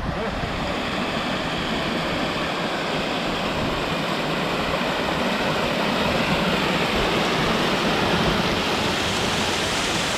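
Steady rush of water from a mountain waterfall, growing a little louder toward the end.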